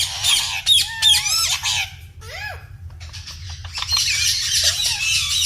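Pet parrot calling: a string of quick whistled calls that rise and fall, a short lull, then a harsh, grating squawk from about four seconds in.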